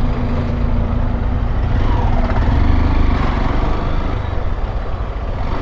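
Honda XRE 190's single-cylinder engine running on the move, its pitch rising and falling briefly about two seconds in.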